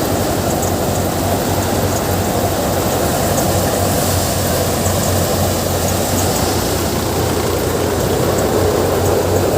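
Gill seven-fan paddy thresher driven by a Sonalika tractor, running steadily at working speed: a constant machine drone with a low hum and faint scattered ticks.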